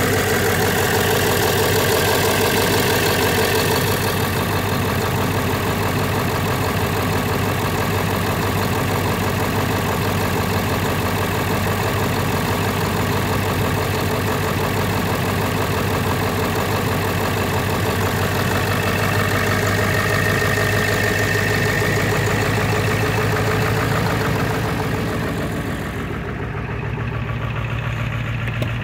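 Ford 7.3 PowerStroke turbo-diesel V8 idling steadily after a cold start in −8 °C.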